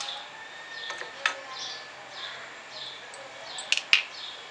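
A bird chirping over and over in short falling calls, about one or two a second, with a few sharp knocks of the cooking ladle against the pan, the loudest two close together near the end.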